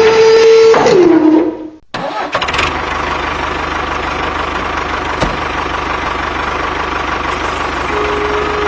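A small motor whines at a steady pitch, winds down and stops about a second and a half in. After a brief pause an engine starts and runs steadily with a low, even chug.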